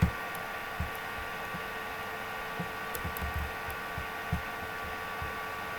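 Computer keyboard being typed on, heard as soft, irregular low thumps with faint clicks over a steady electrical hum.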